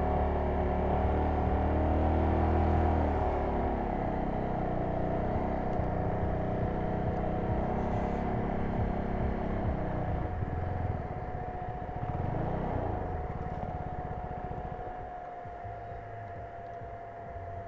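CFMoto 250NK motorcycle's single-cylinder engine running as the bike rides along, growing quieter over the last several seconds as it slows.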